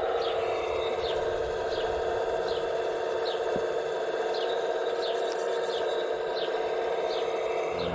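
Steady whine of a radio-controlled scale construction model's electric motor and hydraulic pump running. Short, high, falling chirps repeat about every 0.7 s over the whine.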